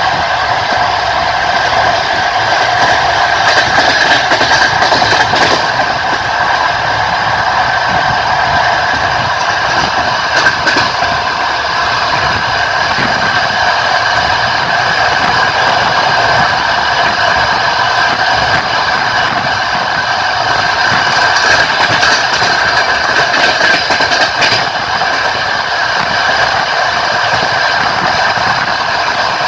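Passenger train running along the line, heard from inside the carriage at an open window: steady rolling noise of wheels on rails with a steady high whine over it and a few faint wheel knocks.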